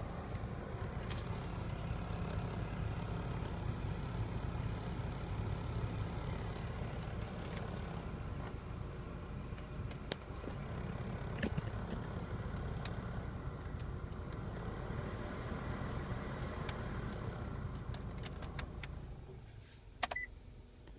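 Mitsubishi Delica D5's heater blower motor running with an abnormal noise, a steady hum with scattered ticks, over the running vehicle. Near the end the sound dies away, followed by a sharp click.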